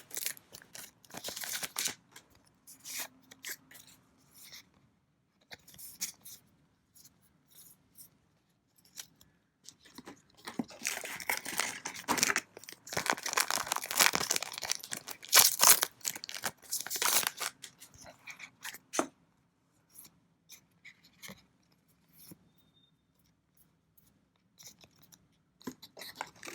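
Foil trading-card booster pack wrappers being torn open and crinkled, in scattered bursts with a denser stretch of tearing around the middle and quiet gaps between.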